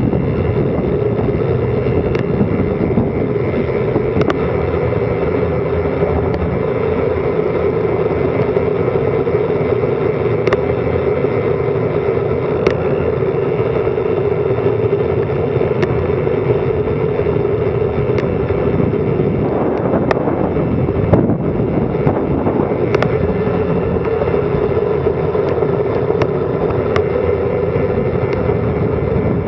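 Steady rush of wind over an action camera's microphone during a fast bicycle descent, with scattered sharp clicks.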